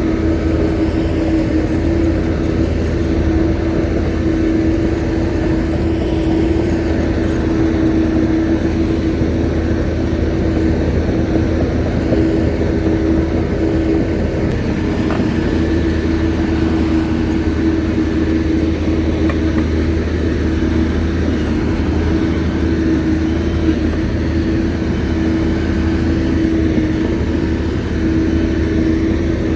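Shantui bulldozer's diesel engine running steadily under load, a constant drone over a low rumble.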